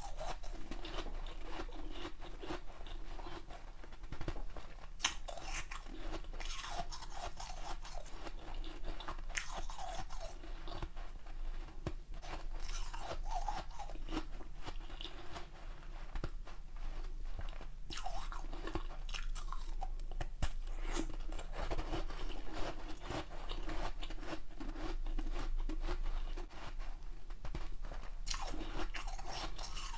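Ice being bitten and chewed close to the microphone: a continuous run of irregular crunches and cracks, with a few sharper bites standing out.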